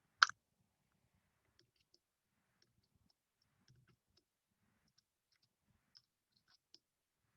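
A sharp click just after the start, then faint, scattered light ticks: a metal binder clip being worked to pick up toothpicks.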